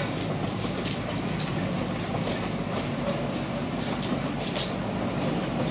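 Two-foot gauge narrow gauge train behind an Alan Keef diesel locomotive running past, the engine running steadily with a low hum over a light clicking of wheels on the rail joints, about two to three clicks a second.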